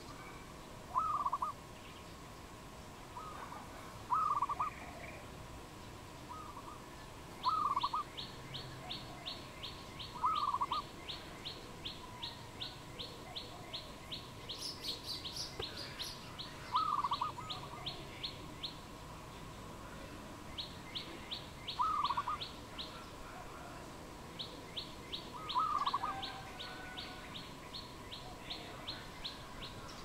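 Wild birds calling: a short, loud call, repeated seven times at gaps of three to six seconds, over a fast run of high ticking chirps from another bird at about three a second.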